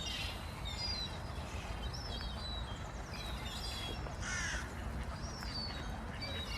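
Several wild birds calling at intervals, with one louder, harsh call about four seconds in, over a steady low background rumble.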